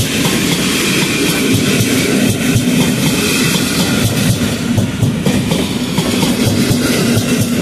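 Passenger coaches of a departing train rolling past close by: a steady rumble with the wheels clacking over rail joints.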